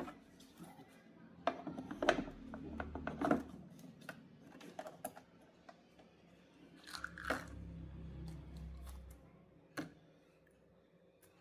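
Irregular clicks, taps and short scrapes of small parts and tools being handled, with a low hum that comes and goes.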